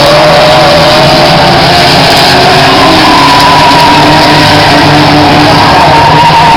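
Euro rod race car engines running hard on the track, loud and distorted on the recording, with the engine note climbing about halfway through.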